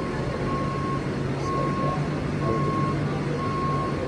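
Reversing alarm beeping steadily about once a second, over the low steady drone of a vehicle engine.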